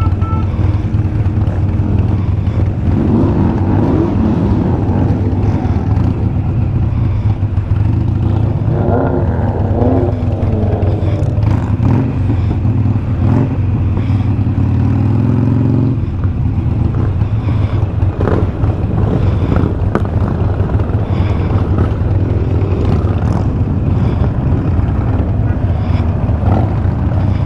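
Harley-Davidson Sportster 883 Superlow's air-cooled V-twin running under way, a steady low rumble with the pitch rising and falling a few times as it speeds up and shifts.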